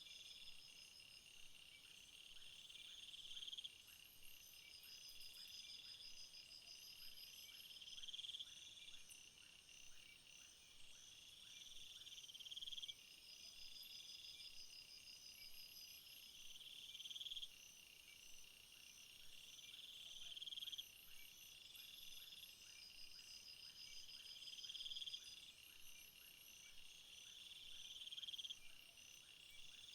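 A faint chorus of crickets and other insects trilling steadily at several high pitches. One louder trill swells and then stops abruptly, about every four seconds.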